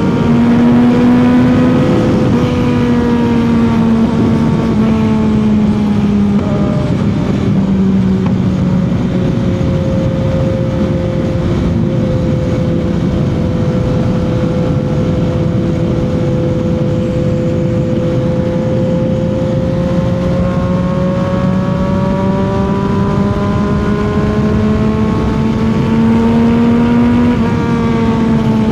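CFMOTO 675's three-cylinder engine running at highway cruising speed, with wind rush. The engine note eases down over the first several seconds, holds steady, then climbs again as the rider rolls back on the throttle.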